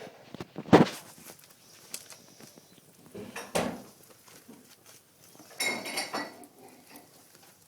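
Fire in a fireplace crackling and popping: a sharp pop about a second in, another near the middle, and a short run of crackles toward the end.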